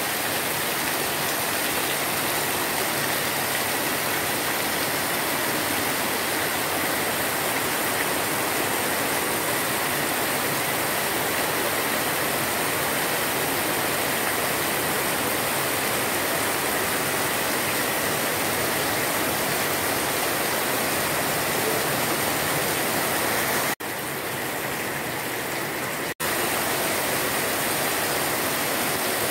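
Torrential rain falling in a dense, steady hiss on grass, puddles and metal roofs, with runoff pouring off a roof edge and splashing onto waterlogged ground. It cuts off abruptly twice near the end, and is slightly quieter for about two seconds between the cuts.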